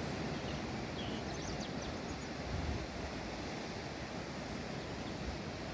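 Steady outdoor noise of sea surf and wind, with low rumbling from wind on the microphone and a few faint high chirps about two seconds in.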